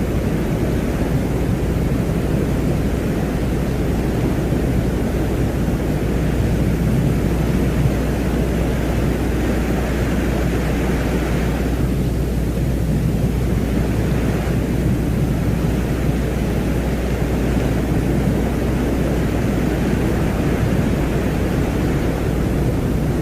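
Steady, deep noise like distant wind, with a constant low hum underneath and a hiss that thins briefly about halfway: an ambient drone track presented as the sound of the planet Venus.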